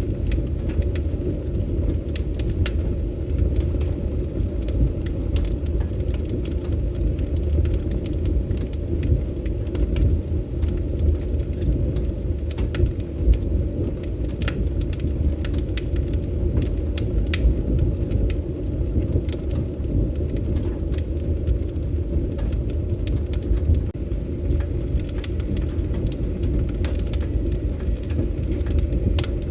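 Wood fire burning with a steady low roar and frequent scattered sharp crackles and pops.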